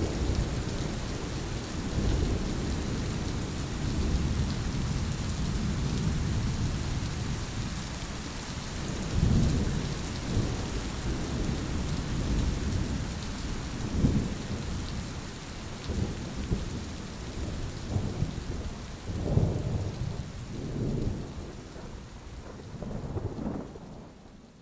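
Thunderstorm: steady rain hiss with low rolling thunder that swells again and again, the whole sound fading out near the end.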